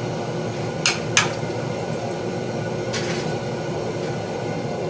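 Steel tools clinking against the treadle hammer's die as the stuck spring fuller is handled: two sharp metal clicks close together about a second in, and a lighter one near three seconds, over a steady background hum.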